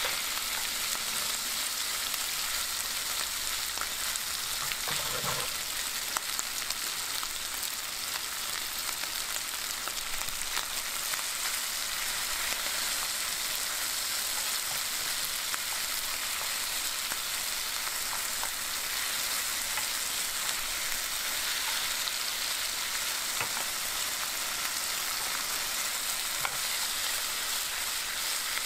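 Chicken feet in spicy red sauce sizzling in a nonstick frying pan over a gas flame, a steady frying hiss, with light scrapes and taps as a wooden spatula stirs them.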